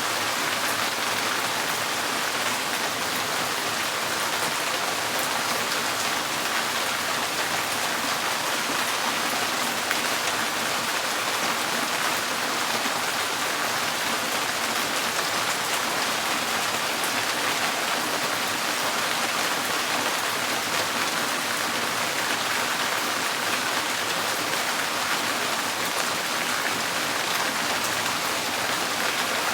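Steady rain falling on a tin porch roof: a dense, even patter of drops that keeps up at the same strength throughout.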